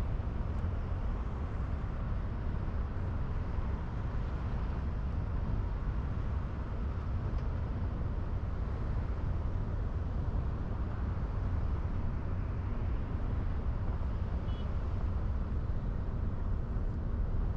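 Steady low rumble and road noise of a moving car.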